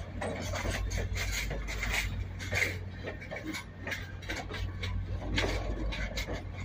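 Passenger train cars rolling past on a curve: a steady low rumble of wheels on rail with irregular scraping and squealing of the wheels against the rails.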